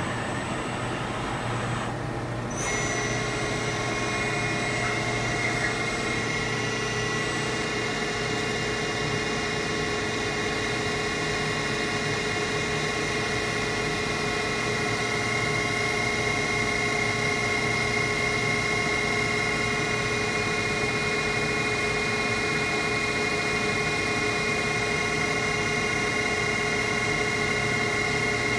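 CNC machining centre running a BT40 LBK holder with an SCBH20-90 damped fine boring head through a boring cut. A steady machine hum is joined about two and a half seconds in by several steady high tones that hold, like a drill whine.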